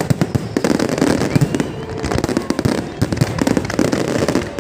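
Fireworks display going off, a dense rapid run of bangs and crackles with no gaps.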